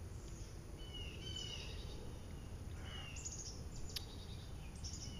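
Birds chirping now and then, short chirps falling in pitch, over a steady low rumble of outdoor background noise, with a sharp click about four seconds in.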